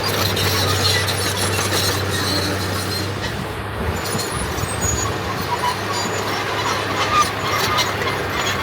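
Diesel engine of earthmoving machinery running steadily, its low hum shifting about three seconds in, with scattered short metallic squeaks over the engine noise.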